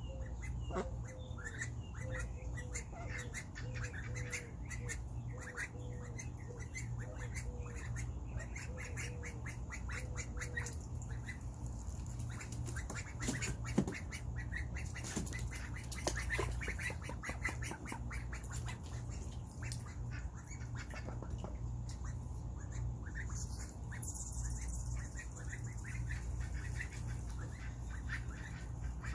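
Young Indian runner ducks calling: many short high peeps throughout, with a run of short, evenly spaced lower calls during the first ten seconds. A steady low hum runs underneath.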